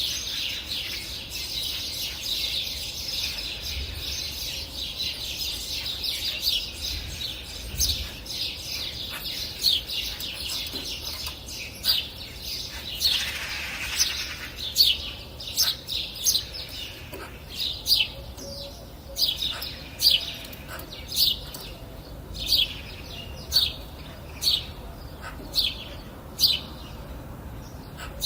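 Songbirds chirping in a busy chorus. From about halfway, one bird repeats a short, sharp chirp roughly once a second and stands out above the rest.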